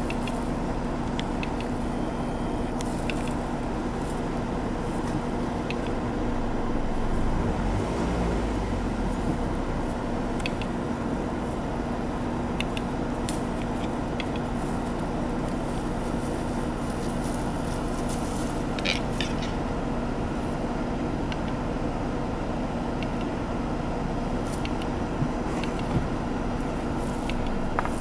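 Car engine idling steadily, a constant low hum with scattered sharp clicks over it and a short cluster of clicks about nineteen seconds in.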